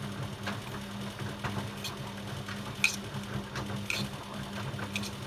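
LG WD-10160SU front-loading washing machine rinsing: a steady motor hum with the water and laundry sloshing and dropping irregularly, about once a second, as the drum turns.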